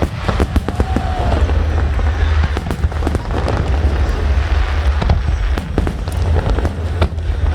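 Fireworks display: aerial shells bursting, with many sharp bangs and crackles in quick succession over a steady deep rumble.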